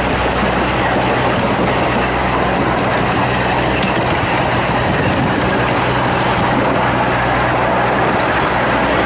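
Cars of a 15-inch-gauge miniature railway rolling along the track, heard from aboard: a steady rumble and rattle of wheels on rails with a low hum underneath.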